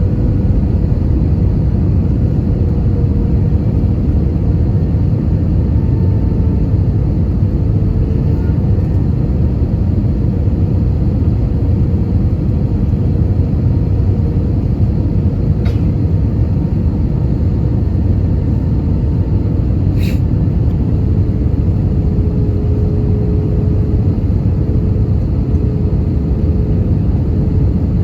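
Steady low cabin roar of an Airbus A320-200 in flight, the engines and airflow running evenly, with a faint steady hum above it. Two brief clicks sound about two-thirds of the way through, a few seconds apart.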